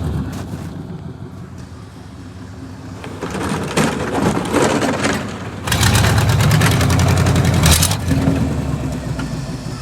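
A vehicle engine running: it drops back to a lower level at first, then revs up hard for about two seconds past the middle before easing off again. A rushing, scraping noise comes just before the rev.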